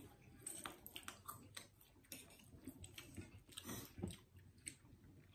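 Faint chewing of instant noodles, with scattered soft clicks throughout.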